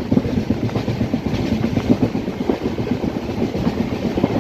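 Passenger train running at full speed: a steady rumble with a rapid, irregular clatter of wheels over the rail joints.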